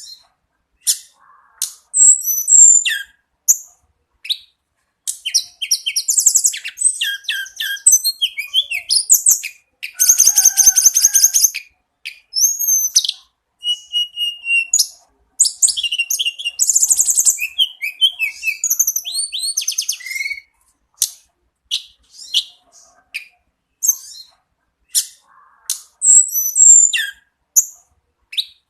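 Tledekan gunung (Sunda robin) singing: a long run of varied high phrases of quick chirps, whistled glides, rapid trills and buzzy notes, with short pauses between them.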